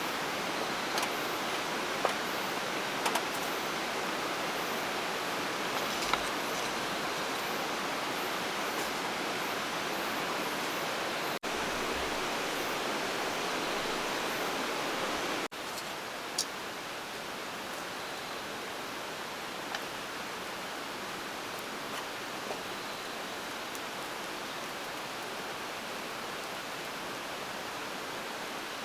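Steady rush of water noise with a few light ticks and taps scattered through it. It breaks off abruptly twice and is a little quieter after the second break, about fifteen seconds in.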